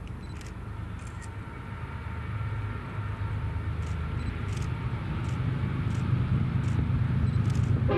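Diesel locomotive engines rumbling low and growing steadily louder as the train comes closer.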